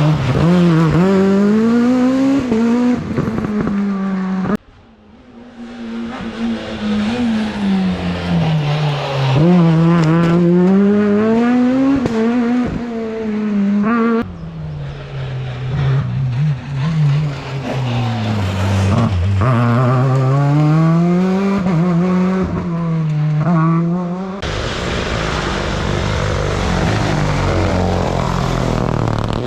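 Rally cars at full speed on a special stage, one after another. Each engine's pitch climbs steeply and drops again and again through gear changes and lifts for corners. The sound changes abruptly three times as one car gives way to the next.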